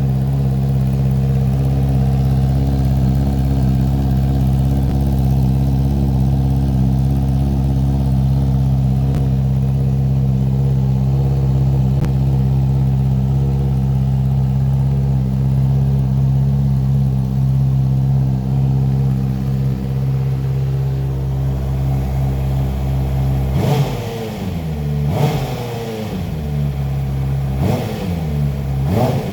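Honda CBR650R's 649cc inline-four engine idling steadily through an Akrapovic exhaust, then blipped four times near the end, each rev rising sharply and dropping straight back to idle.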